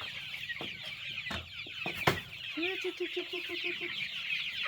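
Chickens: constant high peeping from many birds and, from about two and a half seconds in, one chicken giving a quick run of clucks, about five a second. A few sharp knocks, the loudest about two seconds in.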